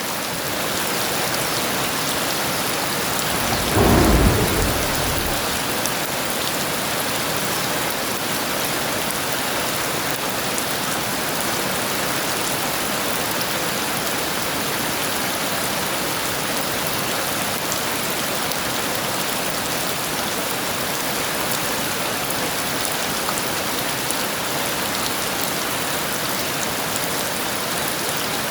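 Heavy rain falling steadily, with one loud, low clap of thunder about four seconds in that dies away within about a second.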